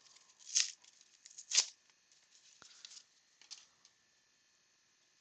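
A baseball card pack's foil wrapper torn open in two short rips, about half a second and a second and a half in, followed by fainter rustling and clicks as the cards are handled.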